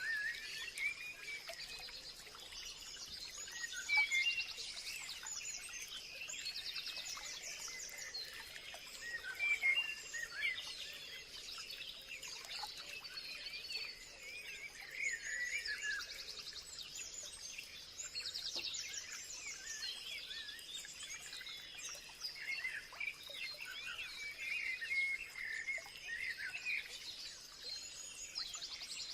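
Several birds singing and chirping at once, with many short overlapping whistles and chirps and now and then a fast buzzy trill, over a steady thin high whine.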